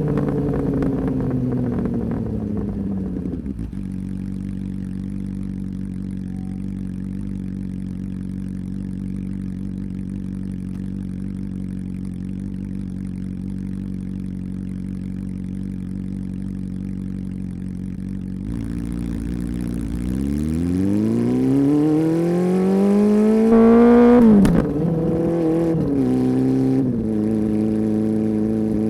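Honda CB400 Super Four's inline-four engine through its exhaust, a deep-toned note: the revs fall and hold steady at a low note, then rise in one long climb of about four seconds, drop off sharply with a click, and settle at a steady, somewhat higher note.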